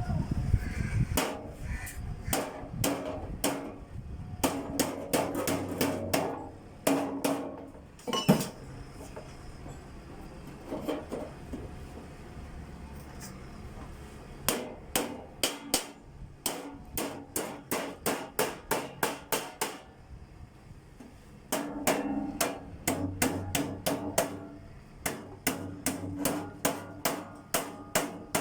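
Hammer striking sheet-metal ductwork in runs of quick, evenly spaced blows, about two to three a second, with short pauses between runs, while a duct joint is being worked. The metal rings a little under some of the runs.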